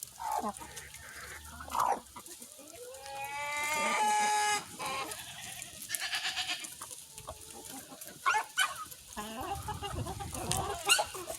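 Backyard chickens clucking and calling in short bursts, with one long rising rooster crow about three seconds in.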